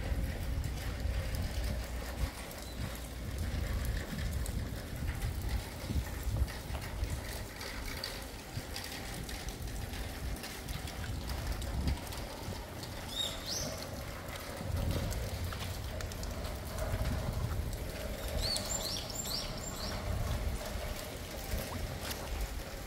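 Heavy rain falling, an even hiss with water trickling, under a low rumble that swells and fades. A few short, high rising chirps come just past halfway and again near the end.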